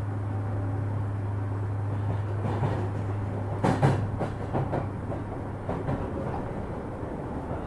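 Inside a JR 205-series electric commuter car: a steady low hum, then a cluster of metallic clunks and knocks from the car's running gear and body, about three to six seconds in, the loudest nearly four seconds in.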